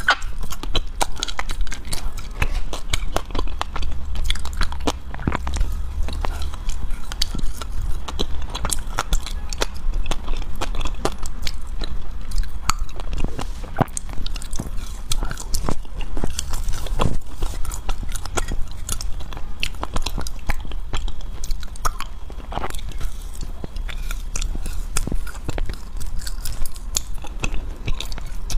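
Close-up biting and chewing of a chewy green-juice and coconut-powder sweet (nuo ji ji), with many small crackling crunches throughout.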